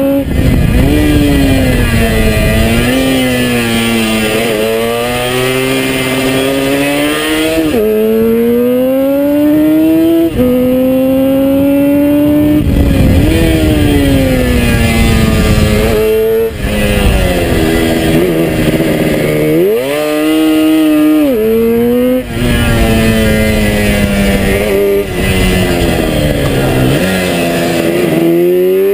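1971 Suzuki T350's two-stroke twin engine ridden hard from on board. Its note climbs in pitch again and again, dropping sharply several times and falling more slowly at others as the bike accelerates and slows for bends.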